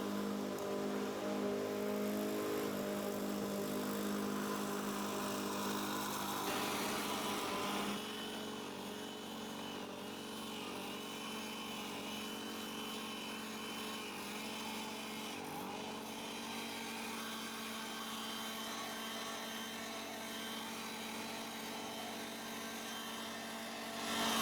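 Small petrol engine of garden machinery running steadily, dropping in level about seven seconds in.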